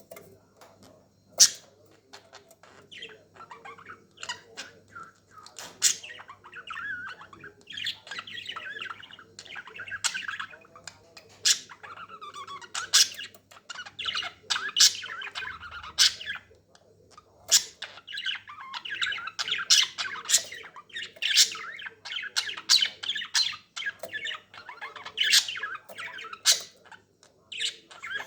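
Budgerigar chatter: a continuous warbling run of chirps and squawks, with sharp, loud chirps scattered throughout.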